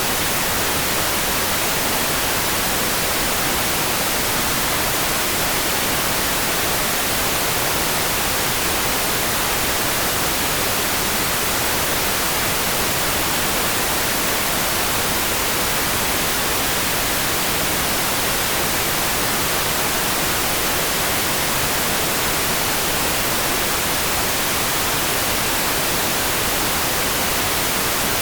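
Steady, even hiss of heavy rain, with no single drops, drips or thunder standing out.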